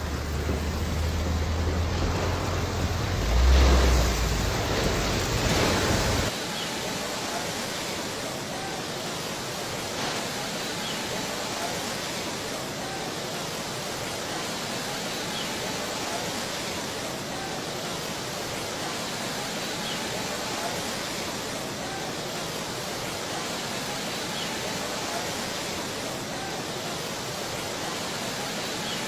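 Rushing floodwater: a steady, even rush of noise. For the first six seconds a louder low rumble runs underneath, then it stops abruptly and only the rushing water is left.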